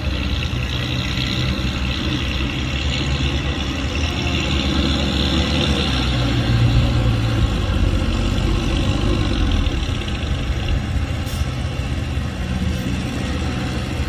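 Heavy diesel engine of earthmoving machinery running steadily, a low hum that swells slightly about halfway through.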